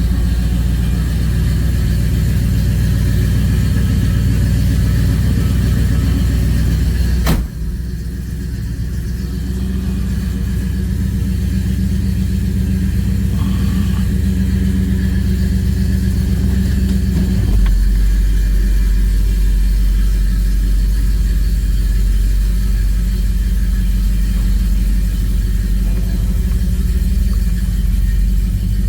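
The rebuilt Pontiac 400 V8 of a 1967 GTO running with a steady low rumble. There is a sudden break about seven seconds in, and the engine note shifts lower about two-thirds of the way through.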